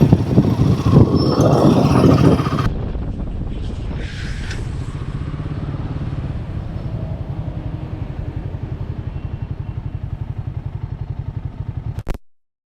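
Motorcycle engine running with an even, steady pulsing beat, after a louder, rougher stretch of noise in the first couple of seconds; it cuts off abruptly near the end.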